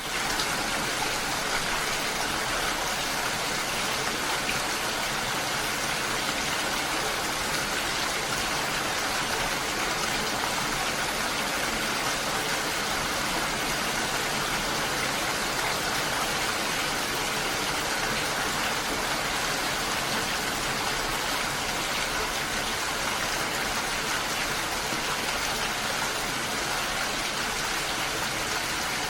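Steady rainfall, an even hiss of drops with no breaks or thunder.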